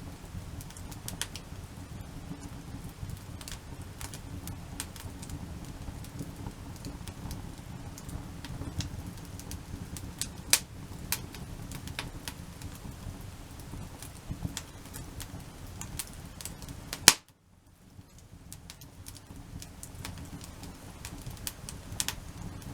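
Wood campfire burning in a well-crib log stack, crackling with scattered sharp pops over a steady low rumble. One loud pop comes about 17 seconds in, after which the sound briefly drops away.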